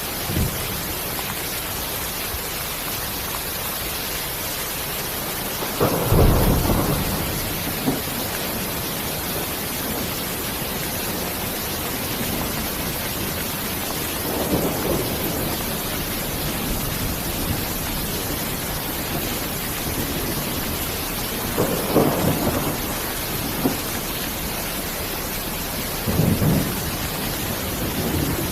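Steady rain hiss, broken four times by brief low rumbles of about a second each, the first and loudest about six seconds in.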